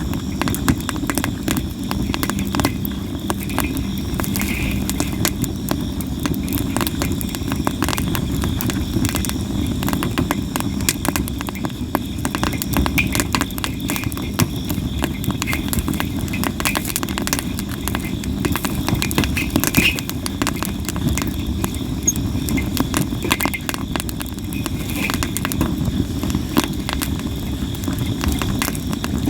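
Sawara cypress firewood burning in a campfire, crackling and popping with many sharp, irregular snaps over a steady low rumble.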